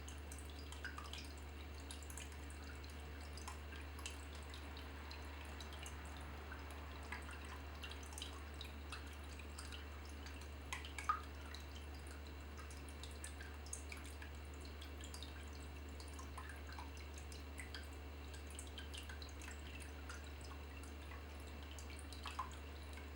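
Water dripping and trickling in irregular small drops, one louder plop about halfway through, over a steady low hum.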